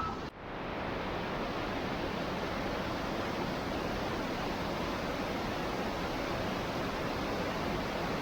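Steady hiss of monsoon rain falling, with a brief dropout just after the start.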